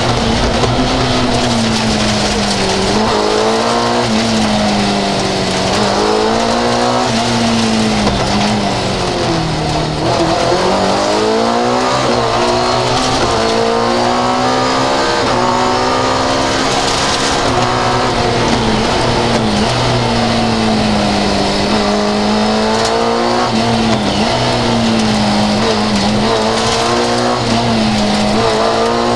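Fiat 131 rally car's engine driven hard, heard from inside the cabin, its pitch climbing and dropping over and over through gear changes and lifts for corners.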